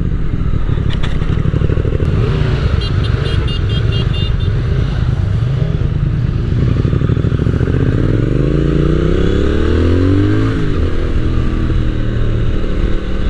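Triumph Speed Twin 1200's 1200 cc parallel-twin engine running under way, with a steady rumble and rushing noise. About eight seconds in it revs up, its pitch climbing steadily for two and a half seconds, then drops sharply as the revs fall away.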